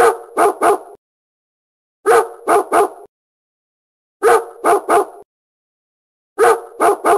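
A dog barking in sets of three quick barks, the same three-bark recording repeated four times about two seconds apart.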